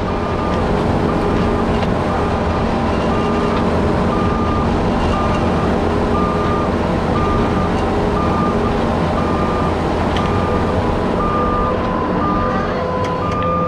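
Diesel engine of a piece of heavy earthmoving equipment running steadily while its backup alarm beeps about once a second as the machine reverses.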